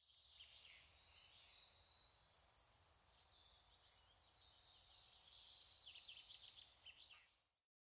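Faint outdoor ambience of birds chirping and trilling among trees, over a low rumble. It fades in at the start and fades out near the end.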